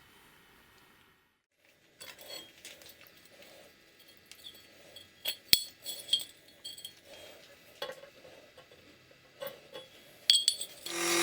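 Metal parts and tools clinking and tapping as they are handled, with a sharp knock about five and a half seconds in. Near the end a small electric motor starts up and runs steadily.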